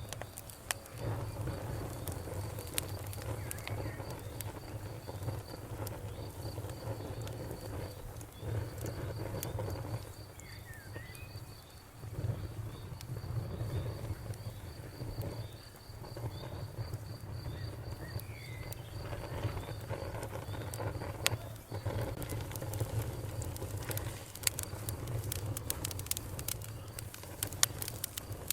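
Campfire crackling and popping over a steady low rush of the flames, with a cricket chirping in an even, fast pulse that stops a few seconds before the end. A bird gives two short calls partway through.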